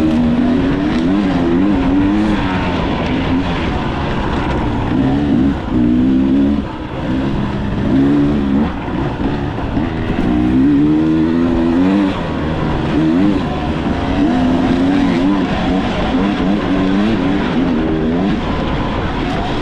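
Dirt bike engine revving up and easing off again and again while riding, its pitch climbing and dropping every second or two over a steady rushing noise.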